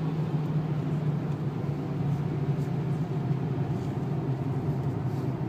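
Renault 2.0-litre turbo diesel engine running steadily at low speed, heard from inside the car's cabin, over a haze of tyre noise on the wet track.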